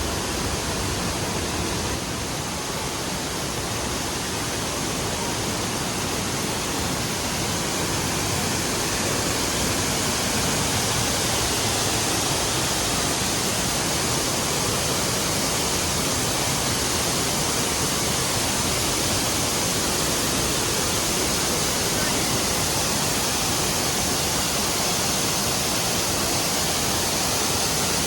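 Waterfall pouring steadily, a loud, even rush of falling water that swells slightly about a third of the way in.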